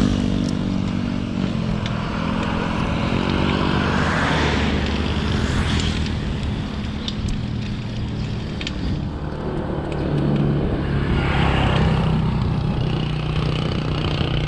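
Motor vehicle engines passing on the road, swelling louder about four seconds in and again near the end.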